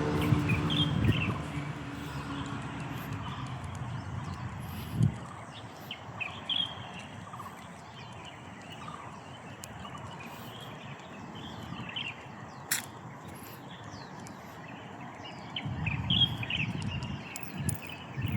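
Morning birdsong: many birds chirping and calling, with a vehicle engine dying away in the first couple of seconds and a few low thumps.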